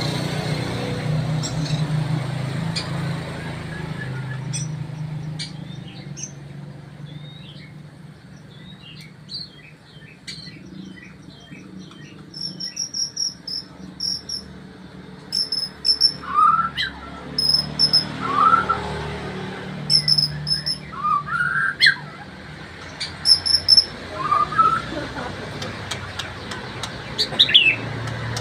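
Male white-rumped shama (murai batu) singing a varied song of chirps and whistles. The song grows louder about halfway through, with short rising whistles and clusters of sharp, high repeated notes. A steady low hum runs underneath.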